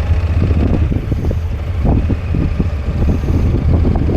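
A motor vehicle engine running with a steady low rumble, with rough buffeting noise over it.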